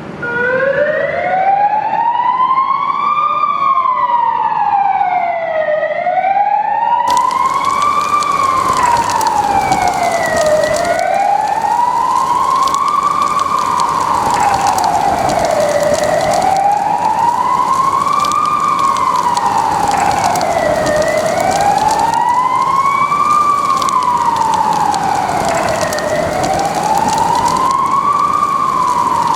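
Police car siren on a slow wail, its pitch rising and falling about once every five seconds, starting suddenly just after the start. From about seven seconds in, a steady hiss sits under it.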